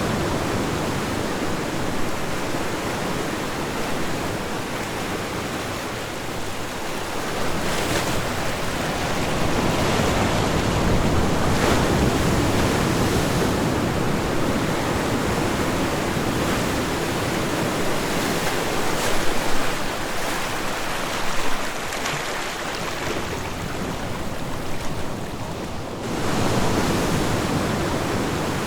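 Ocean waves washing onto a shore: continuous surf that swells and ebbs every few seconds, with an abrupt change in the sound near the end.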